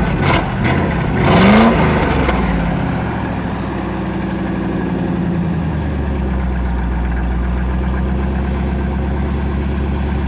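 Old Ford 4x4 pickup's engine running just after starting, revved up and down in the first two seconds, then settling into a steady idle.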